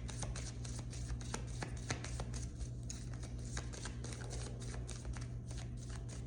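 Tarot cards being shuffled by hand: a quick, irregular run of light card clicks and flicks, over a steady low hum.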